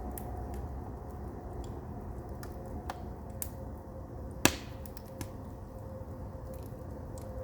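Firewood burning in a traditional Korean agungi firebox: a steady low rumble with scattered crackles, and one sharp, much louder pop about four and a half seconds in.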